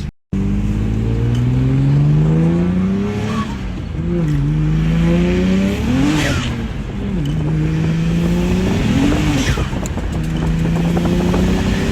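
BMW 135i's turbocharged straight-six pulling under load, its note climbing steadily. It dips and swings up and down about 4, 6 and 9 seconds in as the driver lifts and shifts, with a short turbo hiss at the second and third. The sound cuts out for a moment at the very start.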